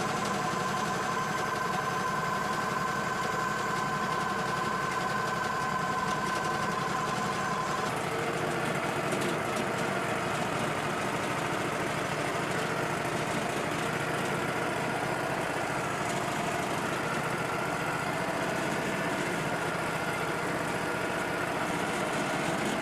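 An engine running steadily at idle, its tone shifting about eight seconds in as the engine speed changes.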